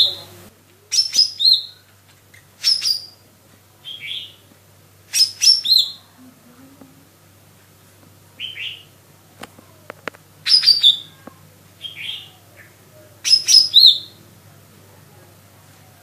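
Lesser green leafbird (cucak ijo mini) singing in short bursts of sharp, high chirps and falling whistled notes, about eight phrases with short pauses between them. A few faint clicks sound midway.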